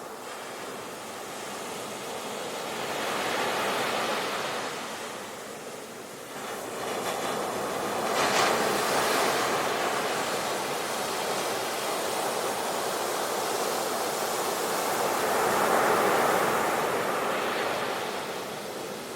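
Sea waves breaking and washing on the shore, three swells in turn, the loudest starting suddenly about eight seconds in.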